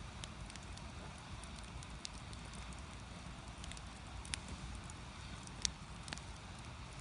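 Firewood burning in a Korean agungi firebox, crackling with scattered small clicks over a steady low rush, and two louder pops past the middle.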